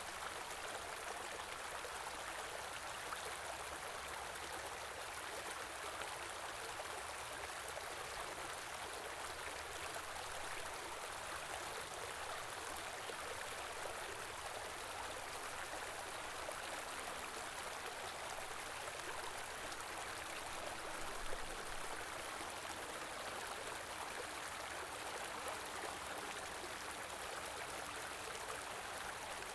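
Stream of running water flowing steadily, an even continuous rush with no breaks.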